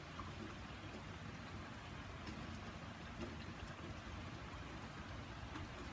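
Steady rain: an even hiss, with scattered fine ticks of individual drops.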